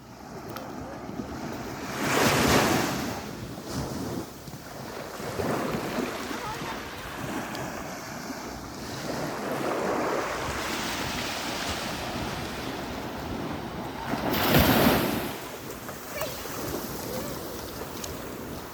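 Sea waves washing in and out, swelling into two louder breakers about two and a half seconds in and again about fifteen seconds in, with wind rumbling on the microphone.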